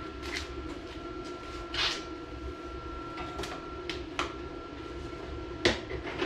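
Welder humming steadily while two brief tack welds are laid on a mini bike's motor mount, short crackling bursts about two seconds in and near the end, with a few lighter clicks between.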